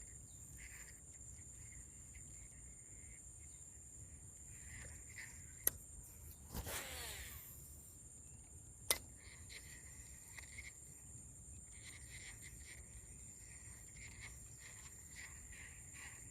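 Steady high insect buzzing with scattered cricket-like chirps. A sharp click comes near the middle, then a swish of about a second that falls in pitch, and another sharp click some three seconds after the first.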